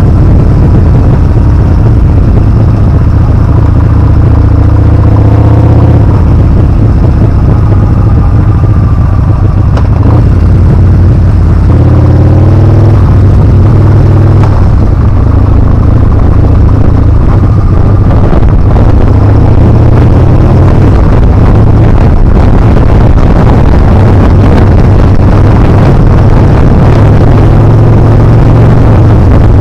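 Yamaha Bolt R-spec's air-cooled V-twin engine running under way, its pitch climbing as it accelerates twice, about four and twelve seconds in. Heavy wind on the action camera's microphone runs under it.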